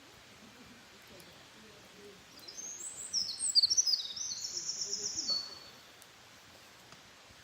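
A wild songbird singing one high song phrase of about three seconds: a run of quick varied notes that ends in a fast trill, starting about two seconds in.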